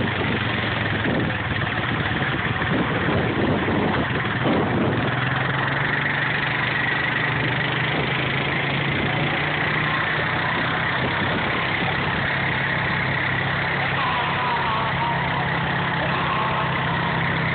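Tractor engine running steadily, with some irregular knocking and rattling in the first few seconds before it settles into an even hum.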